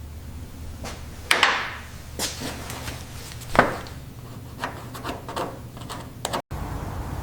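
Workshop clatter of parts or tools: a few sharp knocks and clacks, the loudest about a second and a half in and again about three and a half seconds in, with lighter clicks after, over a low steady hum.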